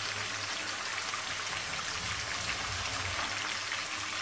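Marinated chicken pieces frying in hot oil in a wok, a steady fine sizzle and crackle on a medium-low flame, with a low steady hum underneath.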